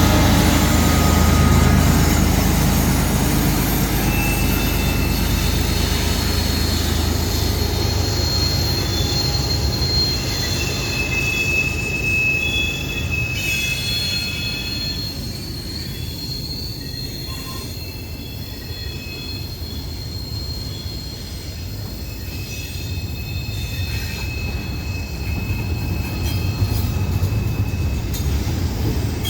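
Freight train cars rolling past with a steady low rumble, their wheel flanges squealing in thin high whines that come and go. The sound eases off somewhat midway and builds again near the end.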